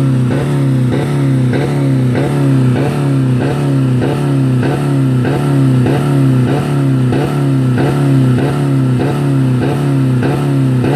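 2000 Dodge Neon's 2.0-litre four-cylinder engine held at about 4000 rpm on the rev limiter, running steadily with a pulsing that repeats about twice a second. The engine is running with no oil or coolant left in it.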